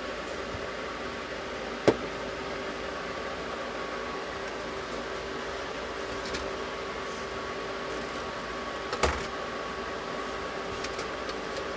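A steady hum with a faint steady tone, broken by two sharp clicks, one about two seconds in and one about nine seconds in.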